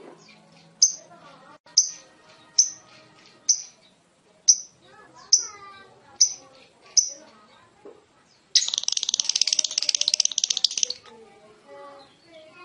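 Lovebird giving a string of sharp, high chirps about once a second, then, about two-thirds of the way in, a loud, rapid chattering trill (the "ngekek") lasting a couple of seconds.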